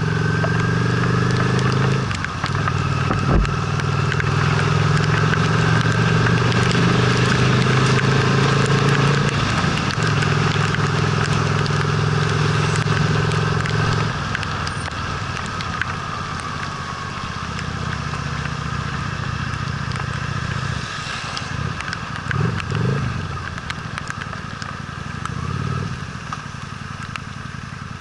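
Honda Steed V-twin motorcycle engine running under way, steady for about the first half, then lower and quieter from about halfway through, with a few brief changes in engine note near the end. A steady hiss of wind and road noise runs beneath it.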